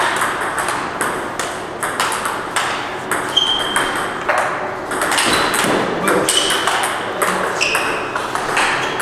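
Table tennis ball clicking off bats and the table during play, many sharp irregular pings in quick succession, some with a short high ring.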